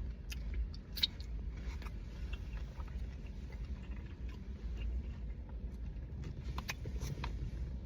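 Chewing and small clicks of someone eating spicy fried chicken dipped in sauce, the sharpest click about a second in, over a steady low rumble.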